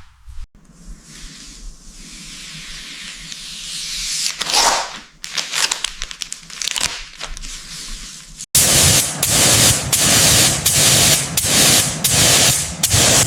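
Compressed-air spraying hissing, building up over the first few seconds with some crackle. About two-thirds of the way through it changes abruptly to a louder, dense hiss that pulses about twice a second.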